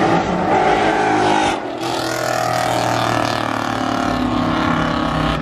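Car engines revving hard at high rpm, with a rising note early on and a steady high-revving drone later, broken by a short drop in level about a second and a half in.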